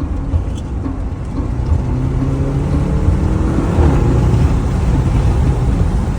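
Car engine and road rumble while driving, with the engine's pitch rising slowly as the car accelerates.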